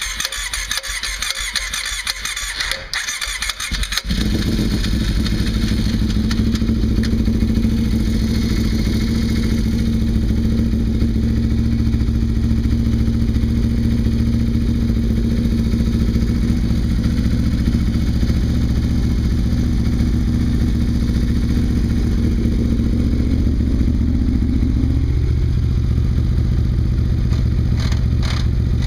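Kawasaki KFX V-Force ATV's V-twin engine being cold-started: the starter cranks for about four seconds, then the engine catches and settles into a steady idle, which eases down slightly near the end.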